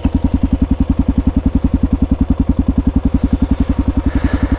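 Kawasaki KLR650 dual-sport motorcycle's single-cylinder engine idling with an even, steady beat of about ten pulses a second.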